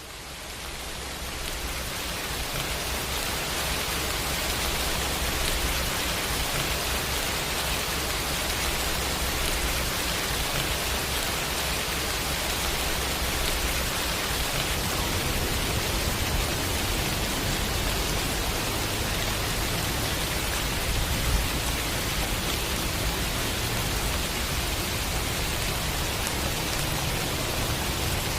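Steady rain, a dense even hiss with a low rumble beneath it, fading in over the first few seconds and then holding steady.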